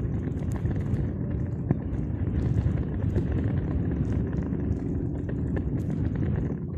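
Wind buffeting the microphone: a steady, irregular low rumble with a few faint clicks.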